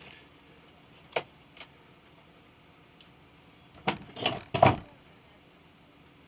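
Small hand tools being handled while a brass piece is measured and marked: a sharp click about a second in, then three quick knocks about four seconds in, the last the loudest.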